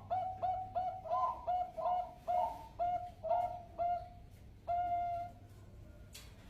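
Zebra dove (perkutut) cooing: a quick run of about a dozen short, clipped notes at roughly three or four a second, ending in one longer held note.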